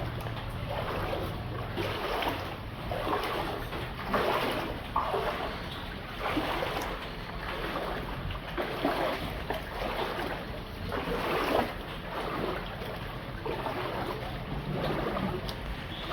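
Floodwater splashing and sloshing in an even rhythm, a surge about every second or so, over a low steady rumble.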